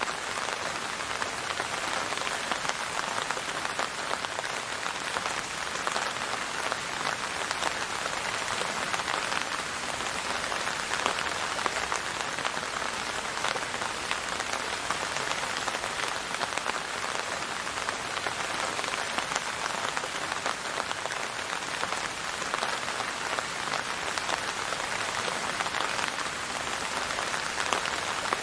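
Steady rain falling on a surface, a dense even patter of many fine drops with no let-up.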